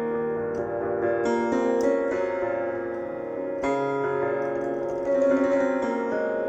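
Piano playing sustained chords, with new chords struck every second or two.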